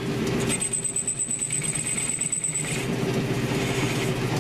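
1942 South Bend lathe running steadily, its motor and drive making a low hum, with a thin high-pitched whine for about two seconds near the start.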